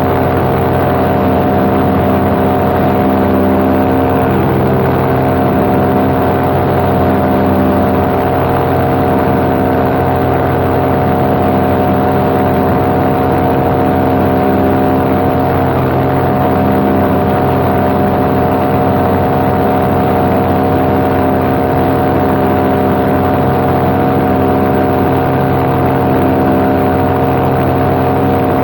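Paramotor engine and propeller running loudly and steadily at cruise power, an even, unchanging engine note heard from the pilot's seat.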